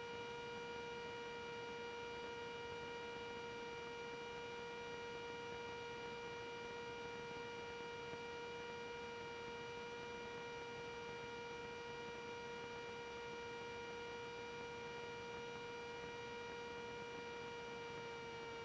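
Steady hum of the Cessna 310's twin engines in level flight: one pitch with a stack of overtones, its pitch shifting slightly near the end.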